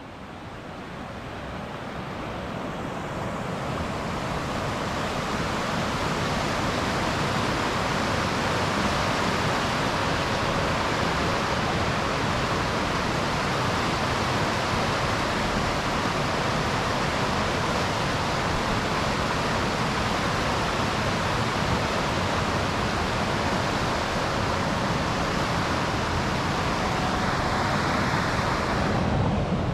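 Steady rushing of Steinsdalsfossen waterfall, fading in over the first few seconds.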